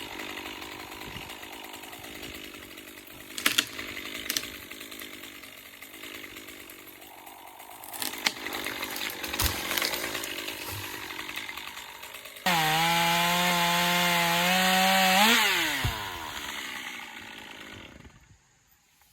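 Battery-powered Stihl pole saw chain cutting through a branch, with a few sharp cracks of wood. About two-thirds in, the saw runs free at full speed with a loud steady whine, then winds down with a falling pitch and stops.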